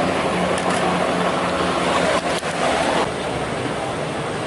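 Supercar engine idling steadily, with a single sharp click a little over two seconds in; the engine sound drops slightly about three seconds in.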